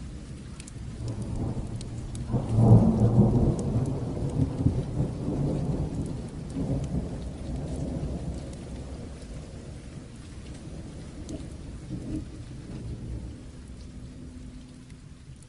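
A long roll of thunder swells about two seconds in and rumbles away slowly over the next ten seconds, over a steady patter of rain.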